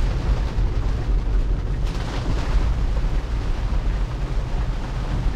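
Steady low rumble of tyre and rain noise inside a Tesla's cabin while driving on a wet road, with a brief louder hiss of spray about two seconds in.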